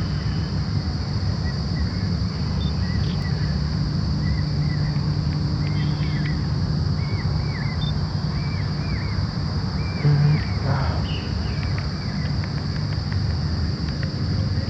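A small bird calling: a series of short, repeated chirps, over a steady high insect drone and a constant low rumble.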